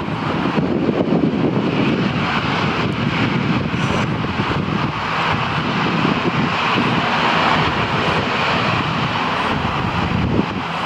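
Jet airliner engines running, a steady roar with a higher hiss that swells in the middle and eases toward the end.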